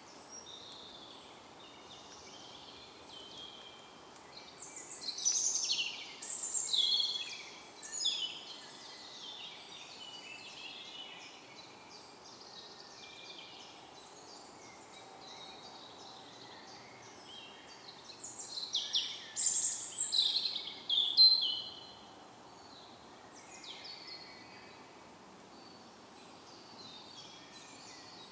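Woodland songbirds singing, a steady background of chirps from several birds. One nearby bird sings a loud phrase of rapid falling notes twice, about a quarter of the way in and again after two-thirds.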